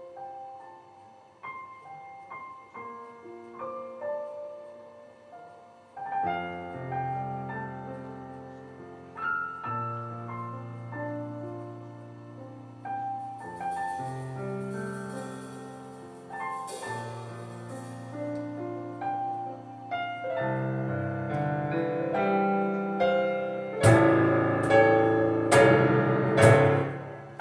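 Live acoustic piano playing a melodic passage, quiet at first and then fuller with low bass notes. Near the end, sharp percussion hits come in and the music builds in loudness.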